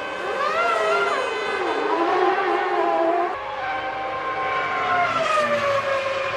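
Formula One car engines screaming at high revs, their pitch rising through the gears and falling away as cars pass.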